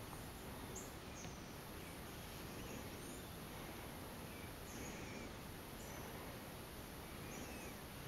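Steady low hiss of outdoor ambience with faint, short, high-pitched bird chirps scattered about once a second.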